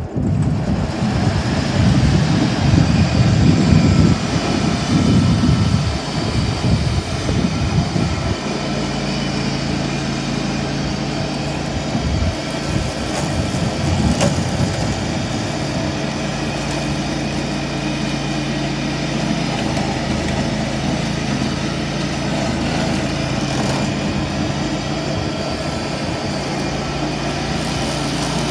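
Ventrac 4500Z compact tractor's diesel engine and shredder attachment running. Rough and uneven for about the first eight seconds, then settling into a steady, even drone.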